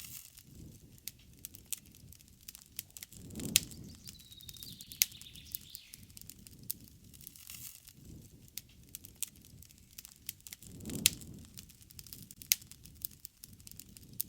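Wood campfire crackling with many sharp pops and snaps over the low rush of the flames, which swells twice, about three and a half and eleven seconds in. A bird calls faintly with a high, thin note about four seconds in.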